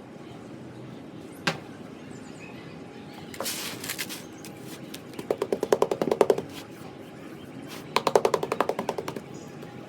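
Rapid tapping on hardened sand-cement blocks: two quick runs of sharp taps, each lasting about a second, after a single click and a brief gritty crunch.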